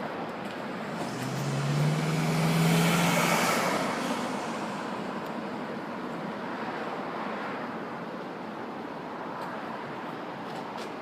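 Steady traffic noise, with one vehicle passing about one to four seconds in: its engine hum rises slightly in pitch as it comes close and then fades away.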